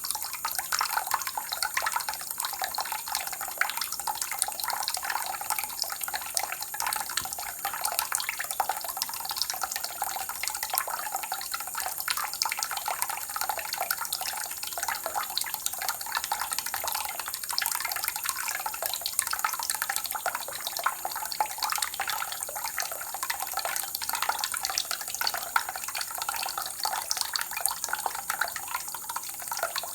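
Water running and splashing steadily, a dense stream of small drops and splashes that does not change over the whole stretch.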